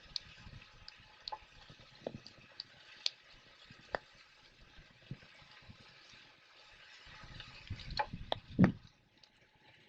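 Campfire wood crackling, with scattered sharp pops and a louder cluster of cracks about eight seconds in.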